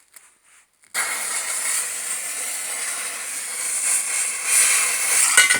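A crimped length of whistle-mix visco fuse lit and burning with a loud, steady hiss that starts suddenly about a second in, with a few sharp cracks near the end.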